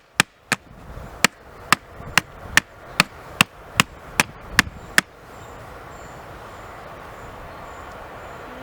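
A run of sharp, evenly spaced knocks, about two and a half a second, stopping about five seconds in; a steady hiss follows.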